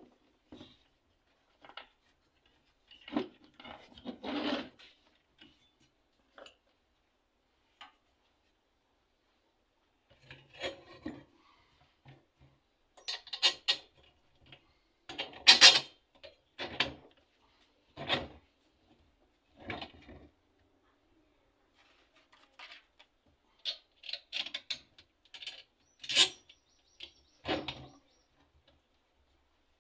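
Irregular scraping and rubbing with occasional knocks, coming in short clusters separated by pauses, like hand work on the parts; no motor running.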